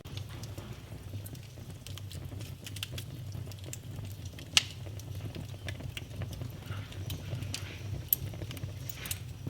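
Wood fire burning in a fireplace: a steady low rumble under scattered crackles and pops. The loudest pop comes about four and a half seconds in, and another sharp one about eight seconds in.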